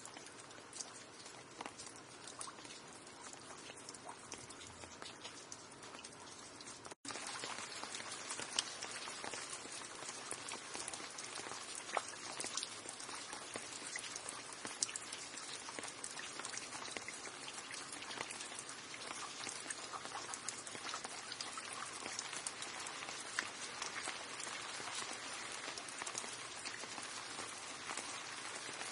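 Steady rain with many individual drops pattering. It cuts out for a split second about seven seconds in, then comes back a little louder.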